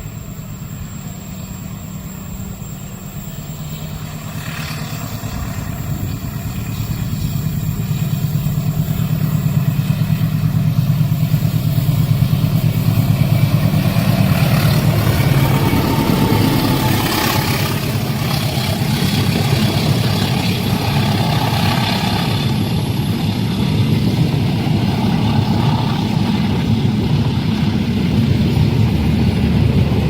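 Loud, steady engine and vehicle rumble that builds over the first ten seconds and then holds.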